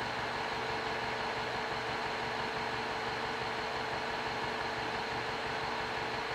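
The Mini Cooper S's turbocharged four-cylinder engine idling steadily.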